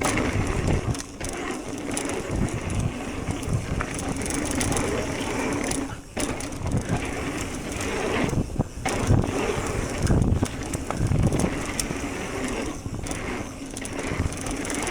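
Propain electric mountain bike riding down a dirt trail: tyres running over the ground with the bike rattling, and wind buffeting the microphone in irregular low surges.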